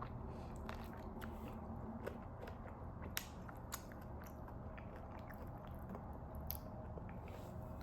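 Close-miked chewing of a mouthful of fufu and goat meat: irregular small wet clicks and smacks of the mouth, over a faint steady low hum.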